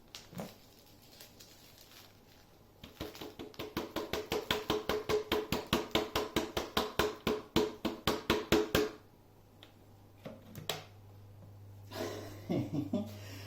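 A fast, even run of hollow knocks, about seven a second for some six seconds, each with a short ring: parts of a bagless vacuum's dust bin being tapped to shake dust loose. A few single knocks come before and after it.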